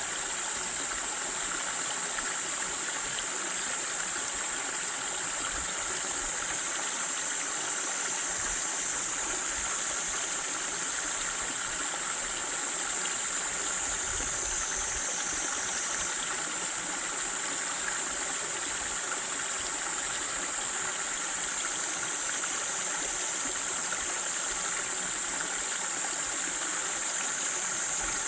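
Waterfall splashing steadily, with a steady high hiss over the rush of water.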